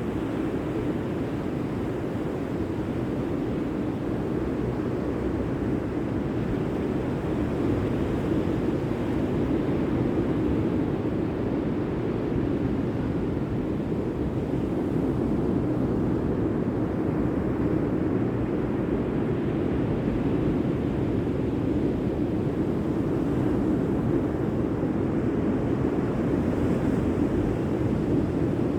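Steady rush of sea surf with wind on the microphone, swelling and easing slowly.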